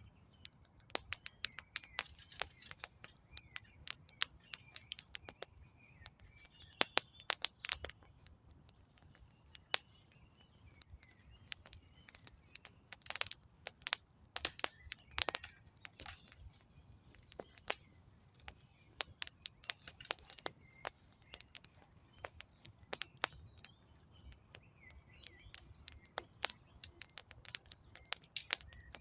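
Wood campfire crackling, with frequent sharp pops and snaps of burning logs over a low steady rumble of flame, a few louder clusters of crackling here and there. Birds chirp faintly in the background.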